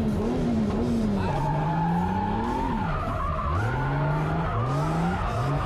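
Drift car's engine running at high revs that waver, then rising in several short sweeps in the second half, over tyre skid noise as the car slides.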